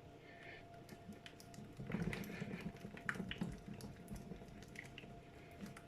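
Faint soft squelches and clicks from a pan of thick cheese sauce on the hob, over a faint steady hum.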